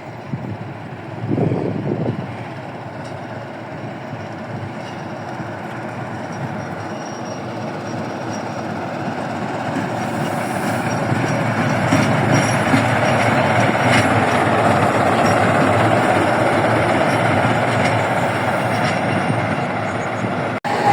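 A train running past on the rails, its rolling noise building over the first half and then holding steady and loud. A short low thump sounds about a second and a half in.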